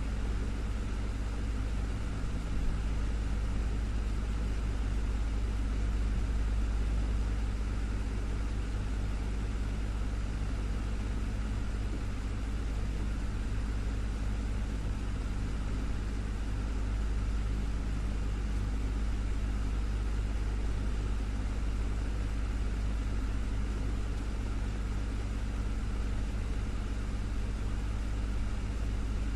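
Desktop fan running steadily: a constant low hum with an even airy whoosh over it.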